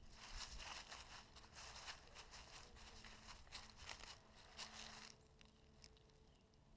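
Faint, irregular crunching and rustling, like footsteps through dry leaves and twigs on a trail. It stops about five seconds in.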